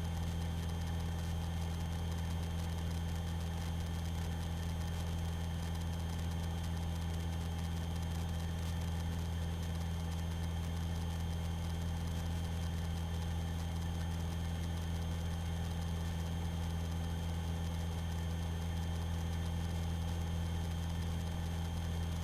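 Steady drone of a light aerobatic aircraft's piston engine and propeller in level cruise, heard inside the cockpit, even and unchanging, with a thin steady high tone above it.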